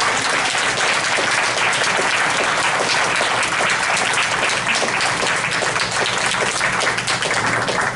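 Audience applauding: many people clapping steadily at the end of a school band piece.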